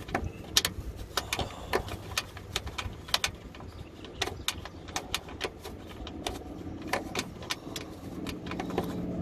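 Irregular clicks and knocks of hand tools and a loosened plastic underbody panel being worked free beneath a Fiat 500, a couple of sharp clicks a second. A steady low hum rises near the end.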